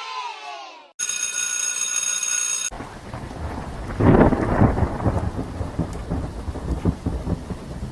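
Thunderstorm sound effect: steady rain, with a thunderclap rumbling in about four seconds in. Before it, a falling-pitch sound fades out and a steady electronic tone sounds briefly.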